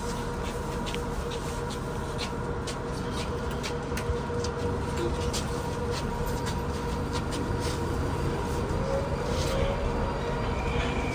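A MetroWagonMash 81-775 metro train running, heard from inside the car: steady electric tones from the traction equipment, many light clicks and rattles, and a rising whine near the end, getting slowly louder as it gathers speed out of the station.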